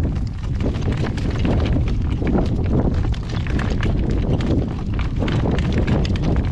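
Strong wind buffeting the microphone in a steady low rumble, with many light clicks scattered through it.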